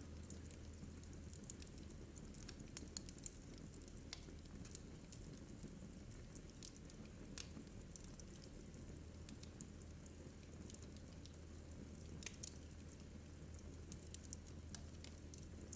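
Wood fire burning in a fireplace, crackling faintly with scattered sharp pops over a low steady hum. The pops come thickest about three seconds in and again around twelve seconds.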